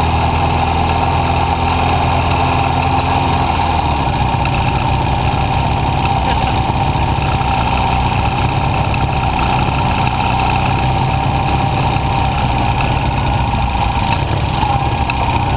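Motorcycle engine running steadily while riding, its note changing about four seconds in.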